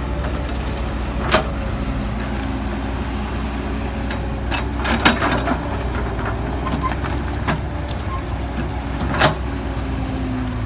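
Cat 312BL excavator's diesel engine running steadily under work, with several short sharp knocks spread through it.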